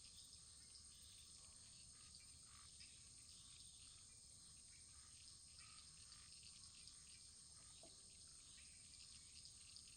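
Faint wood fire burning gently: a steady hiss with small, scattered crackles.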